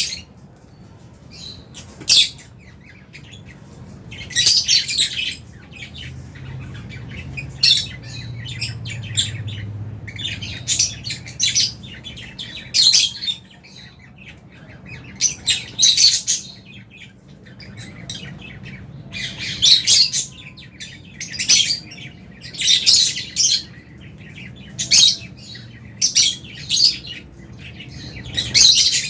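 Aviary lovebirds chirping and squawking in short, shrill bursts, a cluster every second or two, over a faint steady low hum.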